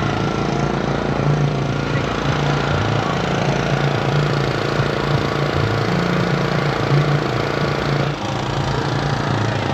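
A car engine idling steadily, with a brief dip in level about eight seconds in.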